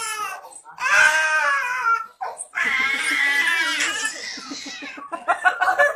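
A young child crying in long, wavering wails, breaking into short choppy sobs near the end.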